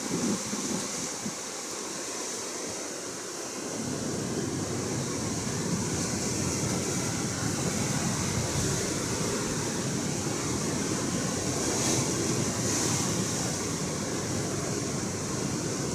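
Atlantic Ocean surf washing steadily, with wind rumbling on the microphone that grows stronger about four seconds in.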